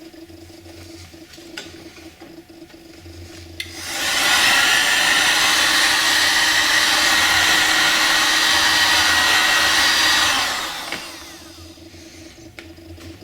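Electric heat gun switched on about four seconds in, running with a steady blowing rush and a fan whine for about seven seconds, then switched off and fading out. It is warming vinyl decals so that their glue sticks.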